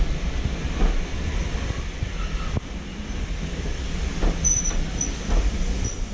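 A train running on the line: a steady low rumble with a knock about once a second. A few brief, faint high squeals come in the second half.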